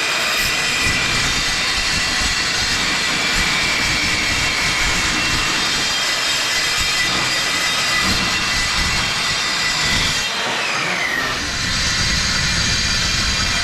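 A power tool cutting steel: a loud, steady hiss with a high whine, whose pitch briefly falls about ten seconds in.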